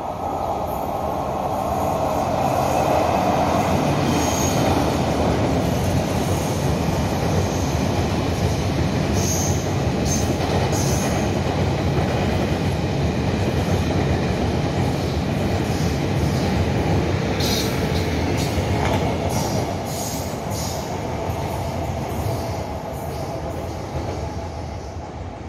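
A long passenger train running past on the station track, with a loud steady rumble of wheels on rail. Short high wheel squeals come through in the first half, and a run of sharp clacks follows later. The noise builds in the first few seconds and dies away near the end as the train moves off.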